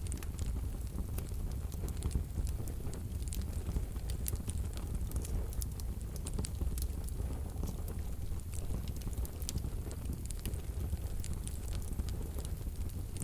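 Wood fire burning in a wood-burning stove, with frequent irregular sharp crackles and pops over a low, steady rumble of the flames.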